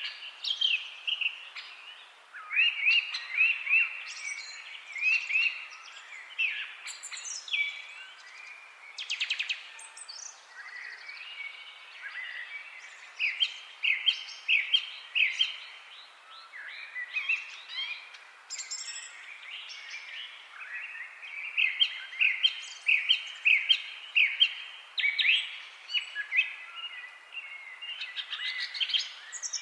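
Several songbirds chirping and singing, with quick runs of repeated short high notes coming in bouts, over a faint steady background hiss.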